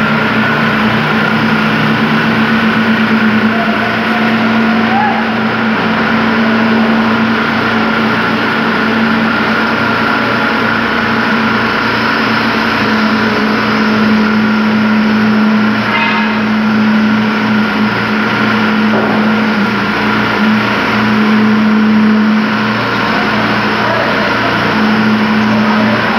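Engine of concrete-pouring machinery running steadily at the site, a constant drone with a fainter high whine over it.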